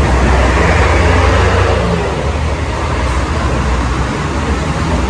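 Road traffic passing in heavy rain: a steady wash of rain and wet-tyre noise over a low engine rumble.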